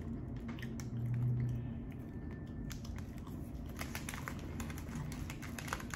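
Quiet chewing of a crisp, cracker-like chocolate biscuit, with faint scattered crunches and clicks and a brief low hum about a second in.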